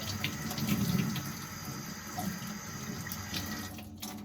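Kitchen tap running into a sink while something is washed by hand under it, with small knocks and clicks. The water shuts off about four seconds in.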